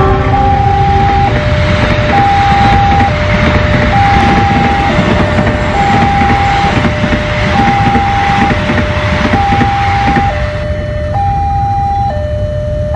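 Express passenger train rushing past at speed, its coaches rumbling and clattering over the rails, while a level-crossing alarm sounds a two-tone warning, switching between a high and a low tone about once a second. The train noise drops away about ten seconds in as the last coach passes, and the alarm keeps going.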